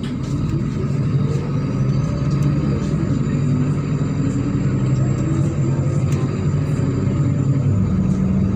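MAZ-103 city bus's engine running as the bus drives, heard from inside the cabin; it grows louder over the first second or so, then holds steady.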